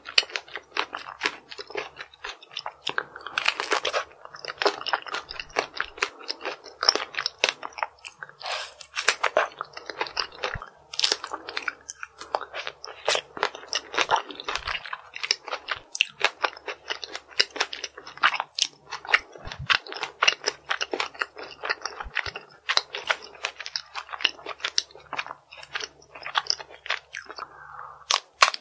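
Close-miked crunching and chewing of chocolate-coated tanghulu: dense, irregular crackles of a hard shell breaking between the teeth, bite after bite.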